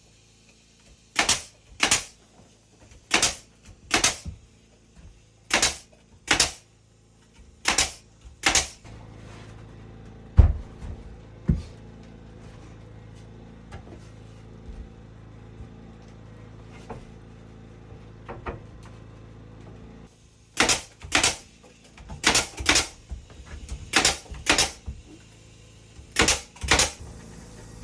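Hammer blows on wood, mostly in quick pairs about a second apart. They stop for about ten seconds, leaving a steady low hum, then resume.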